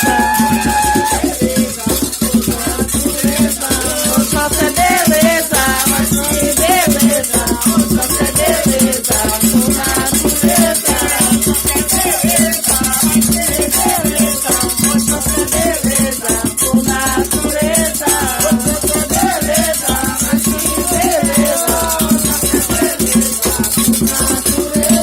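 Candomblé ritual music: voices singing a wavering chant over continuous shaken rattles and a steady percussion beat.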